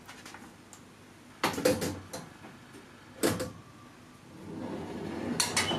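Metal baking tray set onto an oven's pulled-out wire rack and slid in: several sharp metal clanks, then a scraping slide with clinks near the end.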